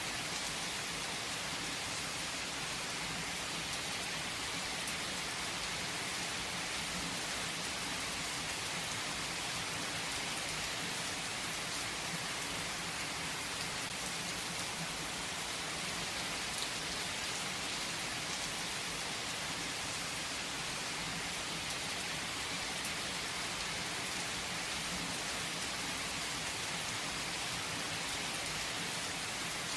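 Heavy rain falling on a tree, a steady, even hiss of drops on leaves with a few individual drop ticks.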